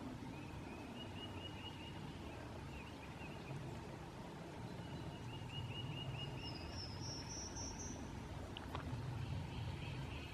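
Red-cockaded woodpeckers calling in runs of short, repeated squeaky notes, once near the start and again about halfway. A higher, faster trill from another bird comes in around two-thirds of the way through, over a low, steady background rumble.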